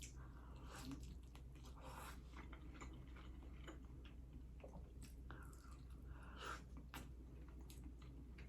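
A person chewing and eating, faintly, with scattered short mouth clicks.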